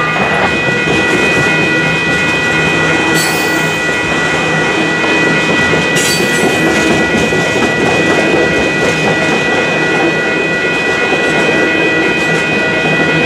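Freight train tank cars rolling through a grade crossing, their wheels clattering steadily over the track, while the crossing's electronic bells ring without pause. Two brief high-pitched wheel squeals come about three and six seconds in.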